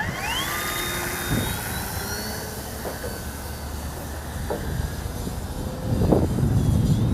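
Pitts model plane's motor and propeller spooling up in a quick rising whine at the start, then running at a steady pitch. Wind buffets the microphone with a loud low rumble near the end.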